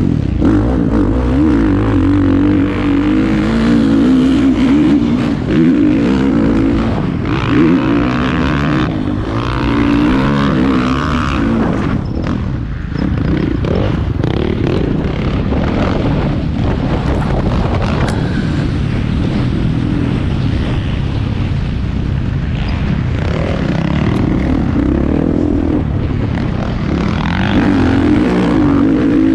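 Motocross bikes racing, their engines revving up and down as riders accelerate and back off around the track. The engine sound is strongest in the first third and again near the end.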